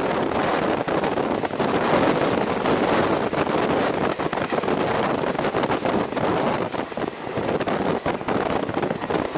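Wind rushing past the microphone and the steady running noise of a moving passenger train, its wheels rolling on the rails, with scattered faint clicks from the track.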